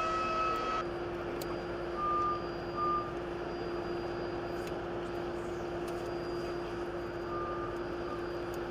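Steady engine hum with a constant low tone, broken by short high electronic beeps: two a couple of seconds in and two more near the end, like a vehicle's reversing alarm.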